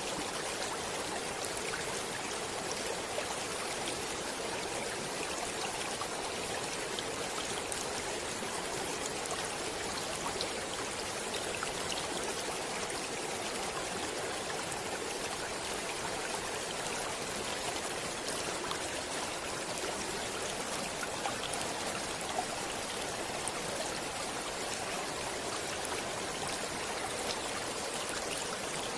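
Running water of a stream flowing steadily, an even rushing with small splashes and drips scattered through it.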